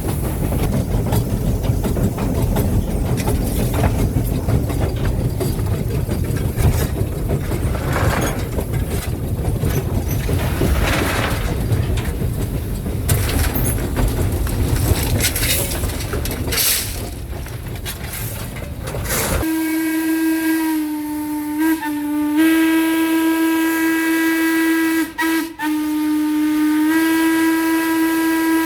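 Steam locomotive running, heard from the cab as a continuous rumble and rattle. About two-thirds of the way in, its Norfolk & Western hooter steam whistle is blown in a long, low hoot of several tones together, broken briefly twice before sounding on.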